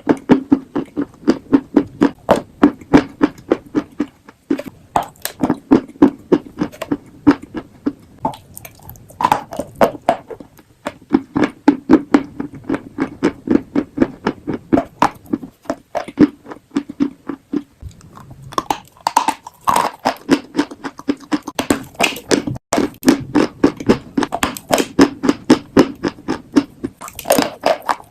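Chalk and clay being crunched and chewed close to the microphone, a quick run of crisp crunches about two to three a second, with brief pauses now and then.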